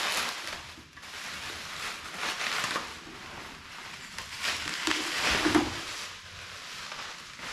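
Plastic packaging rustling and crinkling in irregular spells as boxed parts are unwrapped and handled.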